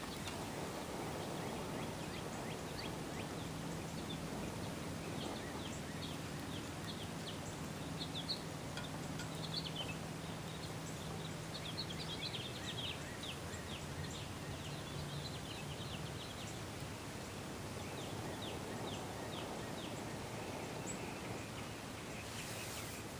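Outdoor ambience: a steady background hiss, with a bird calling in runs of short, high, falling notes through much of the stretch.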